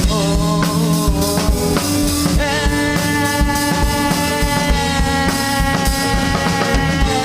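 Live rock band playing an instrumental passage: drum kit with a steady kick-drum beat, bass and electric guitars holding sustained chords, with a higher held guitar line coming in about two and a half seconds in.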